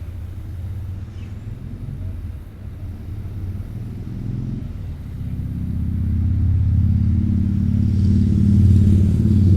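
An engine running with a low, steady hum that grows louder from about halfway through.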